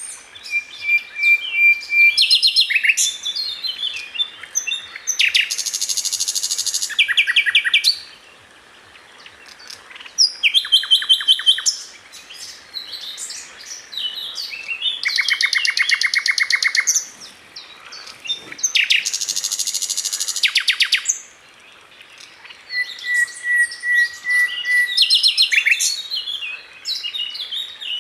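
Sikatan londo flycatcher singing in full, energetic song: fast rattling trills of rapidly repeated notes, each phrase about a second or two long, mixed with chattering twitters and a few long, level whistled notes. It pauses briefly twice.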